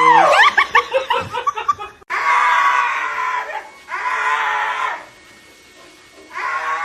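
A dog screaming in high, wavering cries. First comes a cry that rises and falls, the kind a ticklish dog gives when its armpits are tickled, then three long cries of about a second each.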